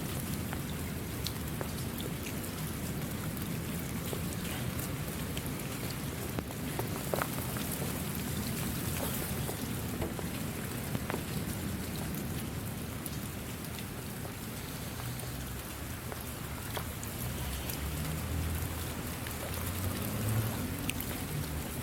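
Steady rain falling, with scattered individual drops heard as sharp taps over a low rumble.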